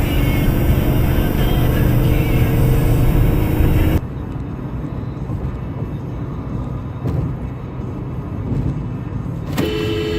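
Road and engine noise of a car driving, recorded by a dashcam inside the cabin, with an abrupt drop to a quieter rumble about four seconds in. Near the end a vehicle horn starts sounding, one steady blast.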